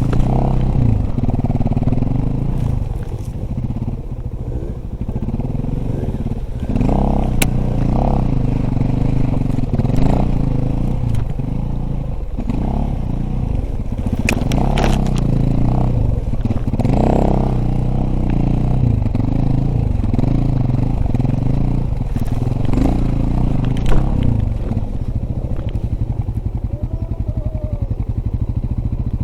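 Dirt bike engine being ridden over rough ground, its pitch rising and falling again and again as the throttle is opened and closed, with scattered knocks and clatter from the bike over the terrain.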